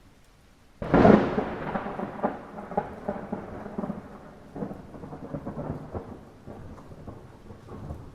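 Light rain falling steadily, with a sudden thunderclap about a second in that rolls on in crackling rumbles and slowly fades away.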